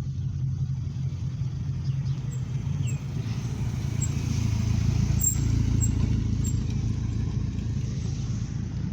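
Car engine running low as a car drives slowly past, growing louder around the middle and then easing off.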